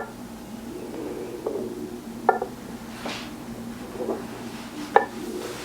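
Dishware clinking at a coffee bar: three sharp clinks with a short ring and a few softer knocks, as cups and a milk pitcher are handled. A brief hiss comes about three seconds in, over a steady low hum.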